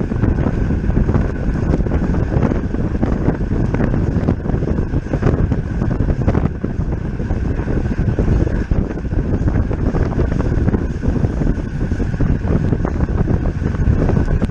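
Wind rushing over the microphone of a camera on a road bike ridden at race speed, loud and steady, with road and tyre noise underneath and a faint steady high whine.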